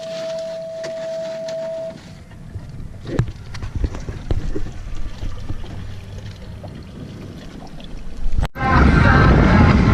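A steady, pure beep-like tone for about two seconds, then boat and wind noise with scattered knocks and clatter. About eight and a half seconds in the sound cuts abruptly to loud background music.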